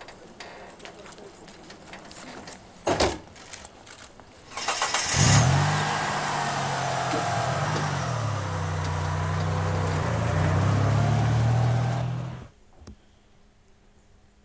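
Vintage jeep's engine catching about five seconds in after a sharp knock, then running steadily with its pitch dipping and rising once, before cutting off suddenly near the end.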